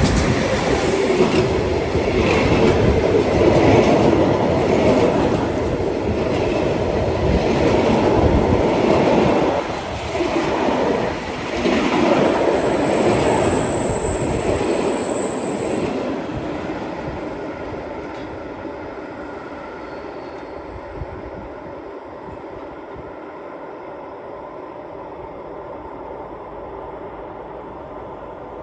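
Train passing on the line, wheels rolling loudly over the rails with a high wheel squeal partway through, then fading away as it departs.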